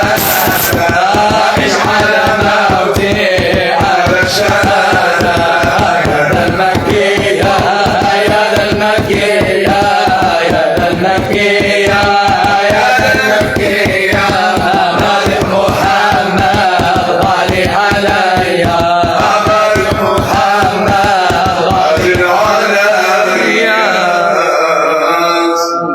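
A devotional song (madih) sung over fast, dense hand-drum beats; the drumming stops about three seconds before the end while the singing carries on.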